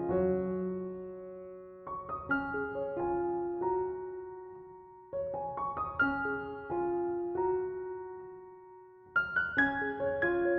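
Slow, soft solo piano music: gentle phrases of a few notes that start about 2, 5 and 9 seconds in and fade away between them.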